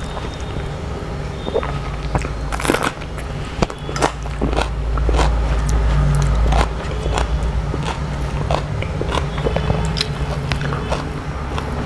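A person eating close to the microphone: chewing a mouthful of rice and crisp fried food, with sharp crunches at irregular intervals over a low steady hum.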